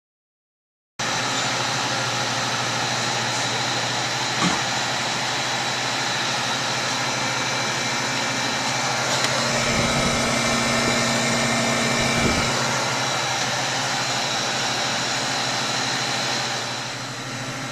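Refrigeration machinery running with a steady hum and whir, starting about a second in, with a couple of brief knocks along the way and a slight drop in level near the end.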